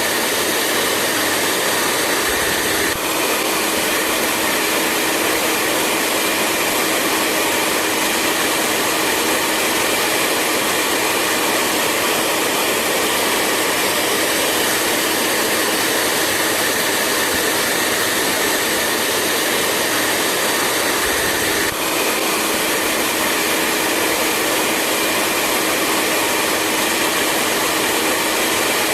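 Hair dryer running steadily: a continuous rush of blown air with a motor hum and whine. The whine changes pitch slightly about 3 seconds in and again about 22 seconds in.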